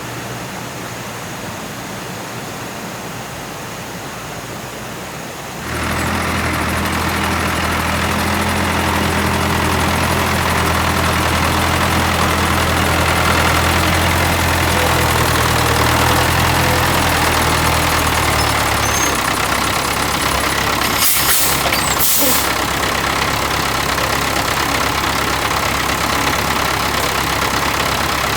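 A small engine starts up suddenly about six seconds in and then runs steadily with a low hum. Two short clicks come about three quarters of the way through.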